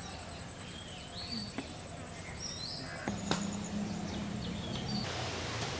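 Outdoor ambience with short bird chirps over a steady background hiss; a low hum joins about three seconds in.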